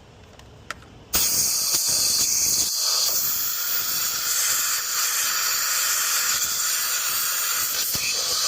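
Compressed-air blow gun from a compressor starting suddenly about a second in and hissing steadily as it blasts air through the vents of a Dyson stick vacuum's cyclone assembly to blow out dust.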